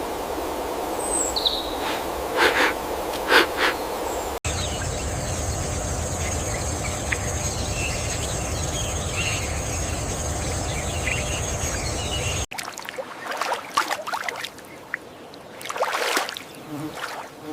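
Outdoor wildlife ambience in three abruptly cut segments. The first has a few short chirps and clicks over a noisy background. The middle has a steady high-pitched drone over a low rumble with faint chirps. The last has scattered clicks and short calls.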